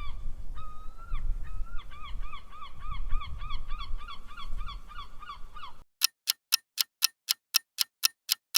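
Seagull giving its long call: a couple of drawn-out cries, then a fast run of short repeated laughing notes, about four a second, over a low background rumble. Near the end the call cuts off and a countdown clock ticks about four times a second.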